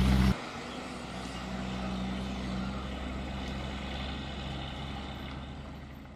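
Heavy truck engine running: loud for a moment, then dropping abruptly to a steadier, quieter drone that fades away near the end.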